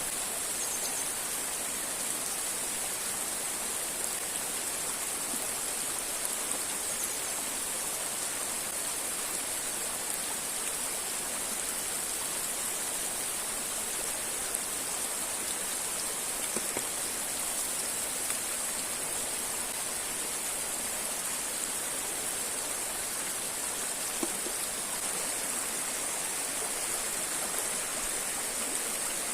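River and waterfall water rushing steadily, an even unbroken noise with a strong high hiss.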